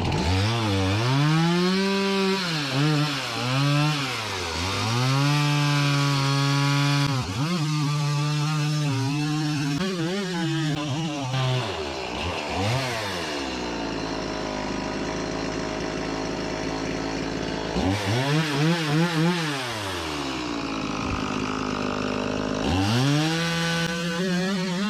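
Small two-stroke chainsaw running and revving up and down, its pitch repeatedly rising and falling. About halfway through, the pitch sinks lower and holds there for several seconds while the chain bogs under load in a rip cut through the log. It does this again briefly later, then picks back up near the end.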